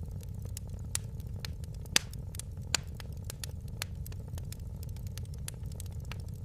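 Wood fire crackling in a fireplace: irregular sharp pops and snaps, a few louder ones about one, two and nearly three seconds in, over a steady low rumble of the flames.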